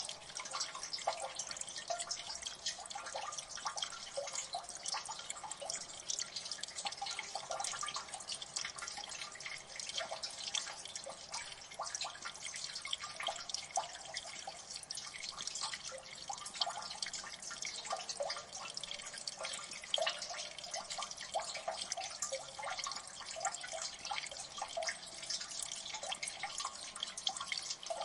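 Water dripping in a gully: many irregular drops, several a second, falling onto water and wet rock, with no steady rhythm.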